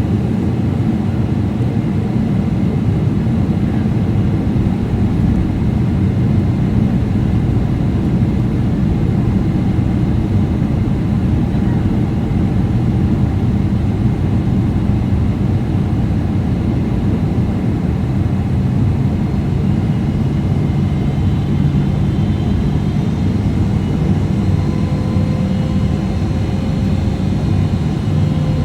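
Steady drone of a Boeing 777-300ER in flight, heard from inside the cabin: deep airflow rush and the hum of its GE90 engines, unchanging in level, with faint higher whining tones joining near the end.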